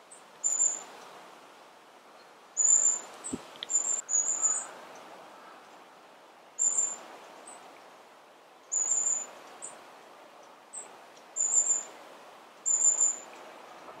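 A small wild bird repeatedly giving short, very high-pitched calls, about one every second or two.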